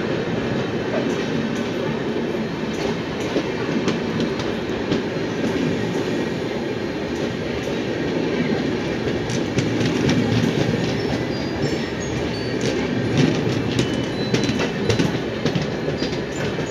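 Steel train wheels running fast on rails as a passenger train passes close by on the adjacent track, heard from inside a moving train: a loud, steady rumble with rapid clickety-clack of wheels over rail joints. The clicks grow busier in the second half.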